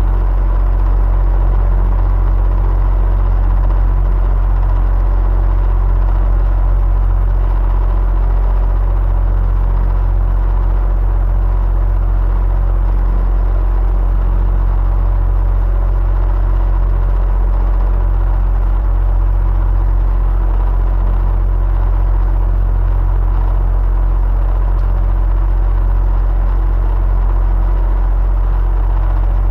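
Electric fan running steadily: a constant deep hum under an even rush of air, with a few faint steady tones and no change.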